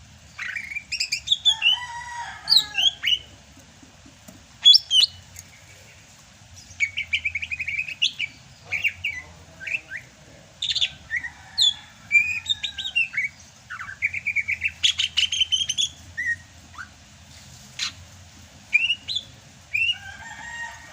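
Sumatran greater green leafbird (cucak hijau) singing a varied, busy song of sharp chirps, whistled glides and fast trills, in bursts with short pauses between them.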